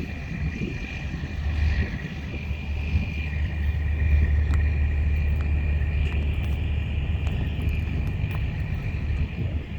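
Vehicle engine running with a steady low rumble, a steady high tone over it.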